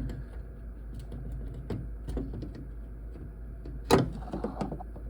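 Handling noises on a microwave oven: scattered small clicks and rustles, with one sharp, loud clack about four seconds in.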